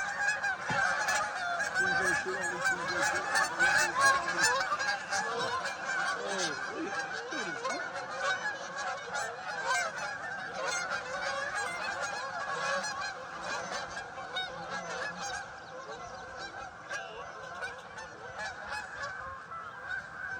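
A large flock of geese honking, many calls overlapping into a continuous clamour, loudest in the first few seconds and easing off later.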